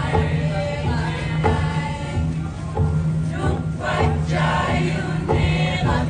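A group of voices singing a song together over a steady low tone, with a sharp accent about every second and a quarter.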